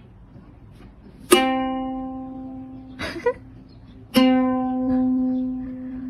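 A plucked string instrument, ukulele-like, sounds the same low note twice, about three seconds apart, each note ringing out and fading. A short scratchy sound comes between the two notes.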